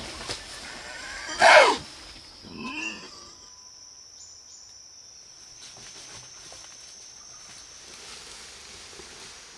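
An animal's loud cry about a second and a half in, falling in pitch, then a shorter, softer call. A steady high-pitched hum runs underneath.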